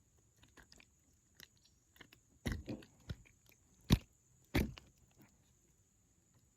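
Scattered clicks and a few sharp knocks, the loudest three coming about halfway through, as a freshly caught crappie is landed and handled in a plastic kayak.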